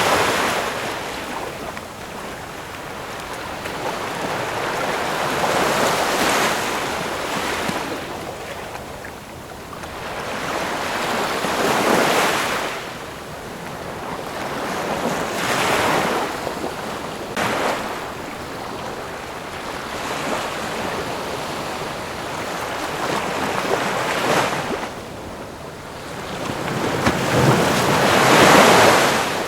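Ocean waves breaking and washing up on shore, one surge every few seconds, each swelling and then fading. The last surge near the end is the loudest.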